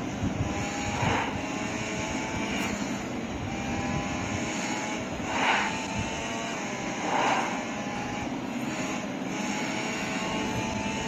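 Motorcycle engine running steadily while riding, under wind and road noise, with three brief whooshes of louder noise.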